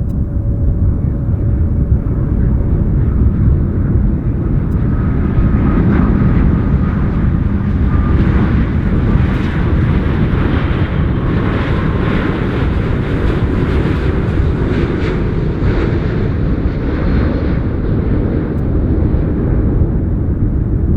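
Airliner on landing approach passing over, its engine noise swelling to a peak about halfway through and then fading away, over a steady low rumble, with faint whining tones.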